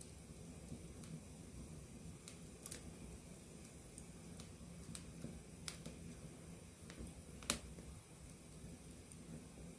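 Wood campfire burning up close: a low steady rumble of the flames with scattered sharp crackles and pops from the burning wood, the loudest pop about three-quarters of the way through.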